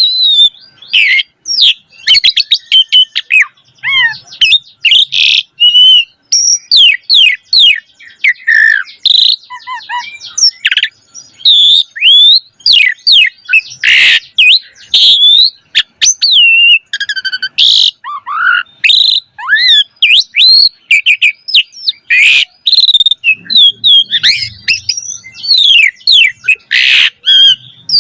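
Asian pied starling (jalak suren) singing without pause: a loud, busy stream of rapid whistles, rising and falling slurred notes and sharp chattering clicks, the fast, full song bird keepers call gacor.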